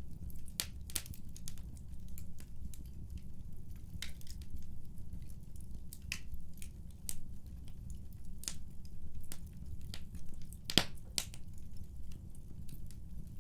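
Wood fire crackling in a fireplace: irregular sharp pops and snaps over a low steady rumble of burning, with one loud crack about eleven seconds in.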